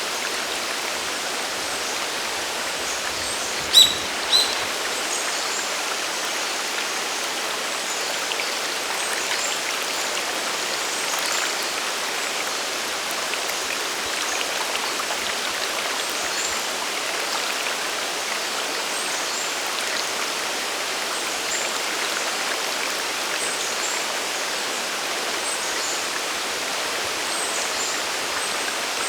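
Waterfall and mountain stream rushing steadily, an even wash of falling water. About four seconds in come two brief sharp high-pitched sounds half a second apart.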